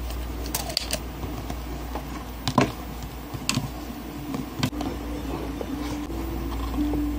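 Scattered sharp clicks and light knocks from small parts being handled while a CRT neck socket is fitted to its board, over a steady low hum.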